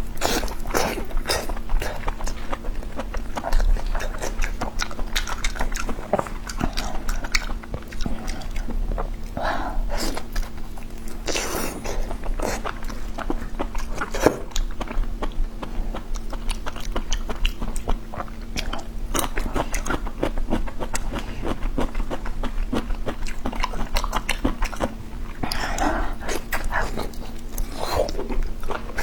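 A person biting and chewing mouthfuls of fatty pork large intestine, a dense run of small mouth clicks and smacks.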